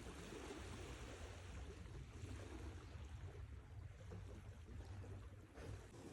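Sea waves washing onto the shore in a steady, even wash of surf.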